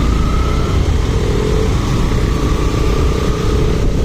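Motorcycle running on the road, with a heavy low wind rumble on the microphone and a faint steady engine tone.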